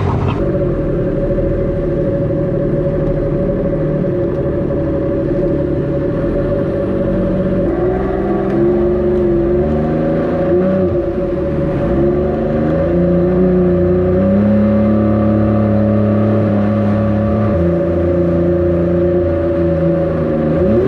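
Stand-up jet ski engine running close by, with a steady whine throughout and a lower engine note that holds, then shifts up and down in pitch in steps.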